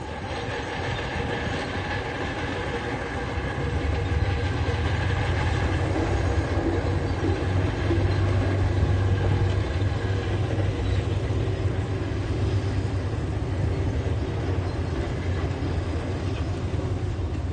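Tracked heavy machine working: diesel engine running steadily under load with steel crawler tracks clattering, louder from about four seconds in.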